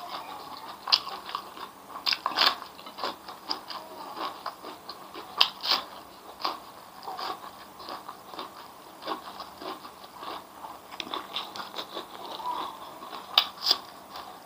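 A person chewing and crunching a mouthful of fried grasshoppers, rice and raw vegetables close to the microphone, with many irregular crisp crunches and clicks.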